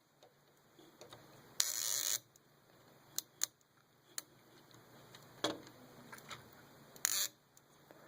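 Plastic Lego pieces of a toy flatbed truck being handled: scattered light clicks and knocks, with a short scraping rustle about a second and a half in and another near the end.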